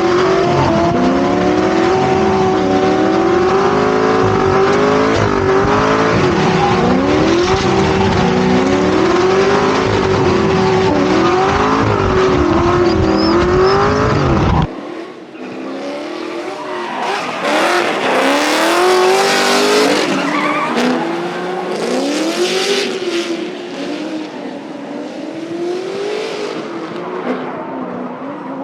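Drift car engines revving hard and falling back over and over, with tires squealing and skidding as the cars slide. About halfway through, the sound cuts suddenly to a quieter, more distant take of more revving and tire squeal.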